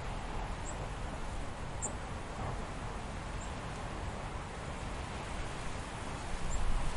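A steady, dark ambience bed with low rumble, and a few faint, brief high squeaks scattered through it, about four in all.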